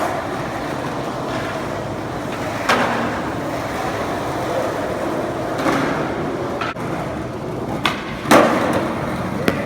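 Skateboard wheels rolling over pavement with a steady rumble, broken by several sharp clacks of the board, the loudest near the end.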